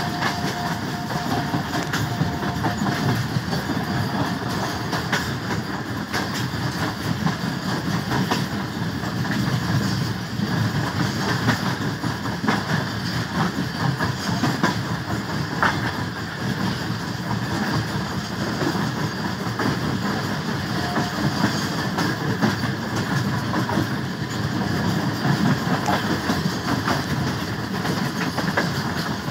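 Train running on the rails: a steady rumble with faint wheel clatter.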